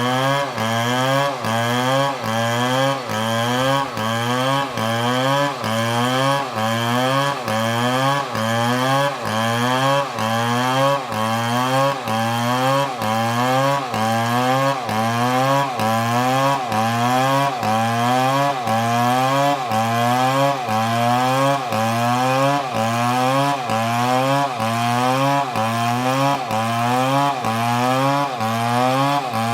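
Two-stroke Stihl chainsaw running hard in a cut, its engine pitch rising and dropping back in a steady cycle a little more than once a second.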